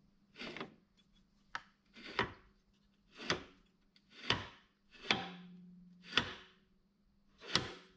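A machined metal part being slid back and forth in its fitted mount, about once a second. Each stroke is a short rub that ends in a sharp knock as it reaches its stop.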